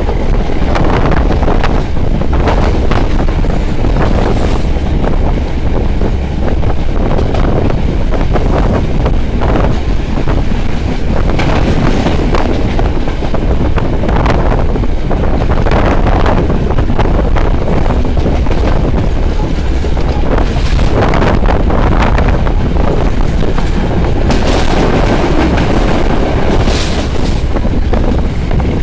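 Train running along the track, heard through an open carriage window: a steady loud rumble of wheels on rails with scattered clacks over rail joints, and wind buffeting the microphone.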